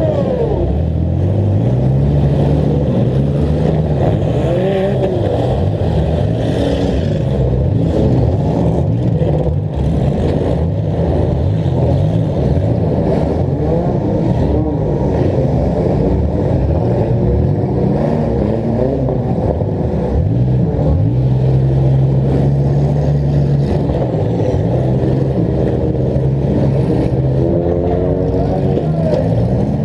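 Demolition derby car's engine running hard close up, revving up and falling back again and again as it drives and manoeuvres, with engines of other derby cars mixed in.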